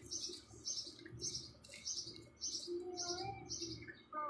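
Baby bird fallen from its nest chirping over and over, short high chirps at about two a second.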